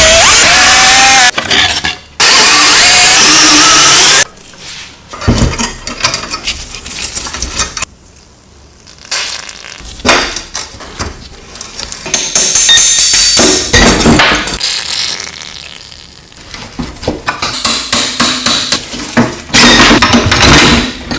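Workshop tool sounds: two loud stretches of a machine running in the first few seconds, then irregular knocking, hammering and clinking of tools on metal parts.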